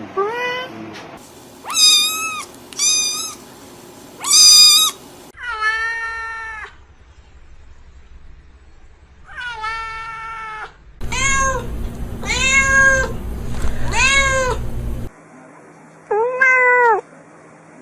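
A series of cat meows, about a dozen drawn-out calls of varying length, with the background hum changing abruptly several times between them.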